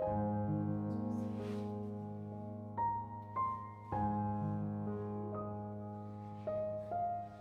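Background music: slow, soft piano with sustained chords and a few single melody notes struck over them.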